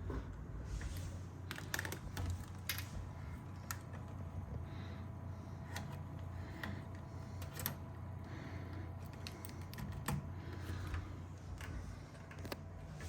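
Irregular light clicks and taps from a computer keyboard being typed on, a few strokes a second, over a steady low hum.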